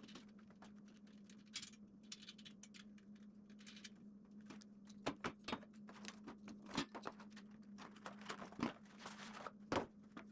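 Light metal clicks, clinks and brief scrapes of small hardware being handled, washers and a nut going onto a caster's threaded stem, with the sharpest clicks in the second half, over a steady low hum.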